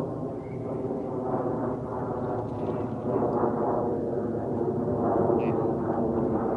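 Sandhill cranes calling continuously with rolling, rattling calls, louder from about halfway through, over a low rumble.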